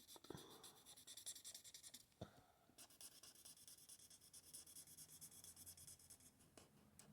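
Faint scratching of an Ohuhu alcohol marker's fine tip stroked back and forth over paper, in many short strokes, with a couple of small taps.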